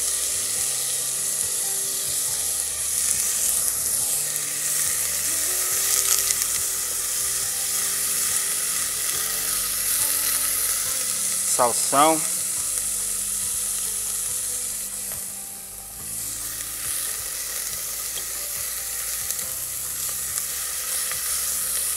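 Chopped onion and garlic sizzling in oil and butter in a stainless steel pot as they are stirred with a spoon: a steady frying hiss. It drops briefly about two-thirds of the way through as celery is added, then carries on.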